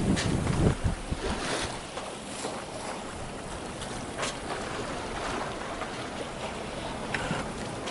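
Sea water rushing and splashing against a sailboat's hull under way, with irregular splashes; wind rumbles on the microphone in the first second.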